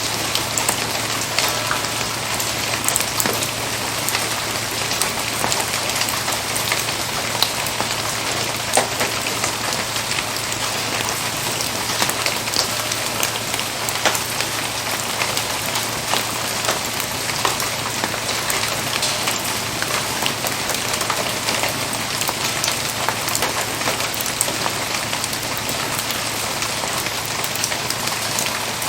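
Steady rain falling, with a dense scatter of small, sharp drop hits.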